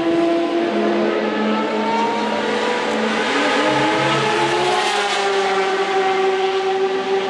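Racing car engines held at high revs, several at once, with one engine's pitch rising about halfway through.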